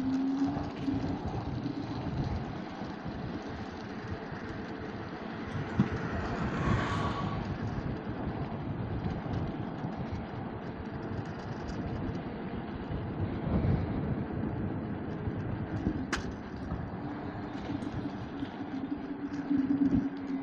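Street and road noise heard from an electric scooter while riding: a steady rumble and hiss, with a vehicle passing about seven seconds in. A low steady hum comes in near the start and again near the end, and there is a single sharp click at about sixteen seconds.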